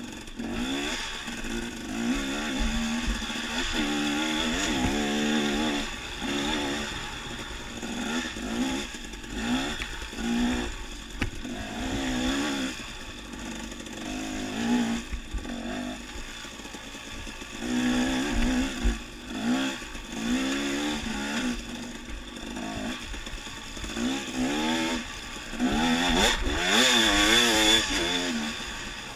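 Dirt bike engine under way on a trail, its pitch rising and falling every second or two as the throttle is opened and closed.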